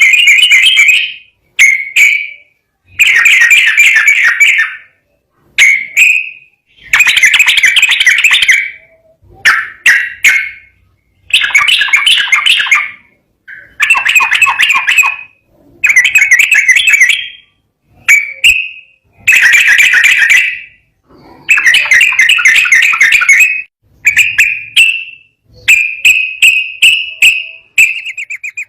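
Sooty-headed bulbul (trucukan) singing loudly: a long run of quick phrases, each about one to two seconds long, with short pauses between them.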